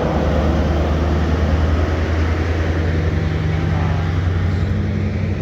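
Passenger train running, heard from inside the carriage: a steady low rumble and hum with a hiss of running noise over it.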